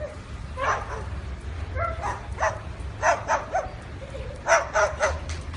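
A dog barking repeatedly in short, high-pitched yaps, in uneven clusters of two or three, over a steady low rumble.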